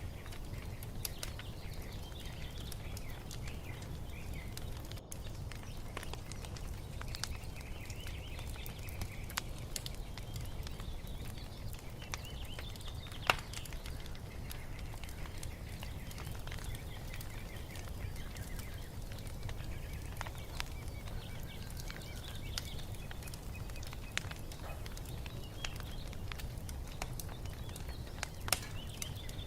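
Wood fire crackling, with scattered pops and one sharp, louder pop about halfway, over a low steady rumble. Faint birds chirping in the background.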